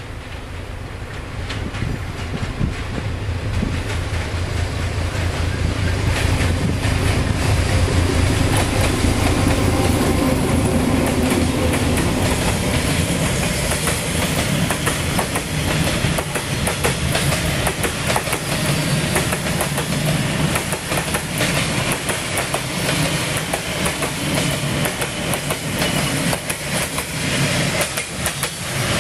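D12E diesel locomotive hauling a freight train past. Its engine's low rumble grows louder over the first several seconds, then the loaded open wagons roll by with steady clattering of wheels over the rail joints.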